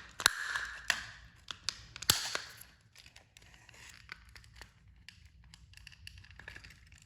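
Handling noises of a plastic toy train being pried apart by hand: a run of sharp plastic clicks and rustling over the first couple of seconds, then fainter scattered ticks.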